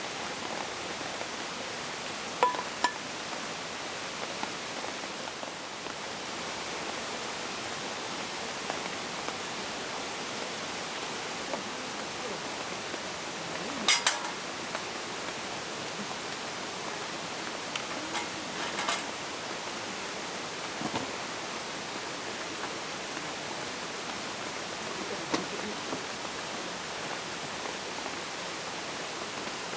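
Steady hiss of rain falling in a forest, broken now and then by short sharp clicks and knocks, the loudest two about halfway through.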